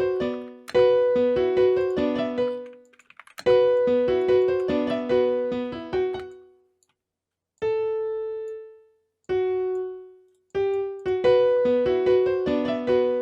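Piano-like keys melody for a trap beat playing back, in short repeating phrases of decaying notes. It stops several times, with a couple of lone held notes around the middle before the phrase comes back.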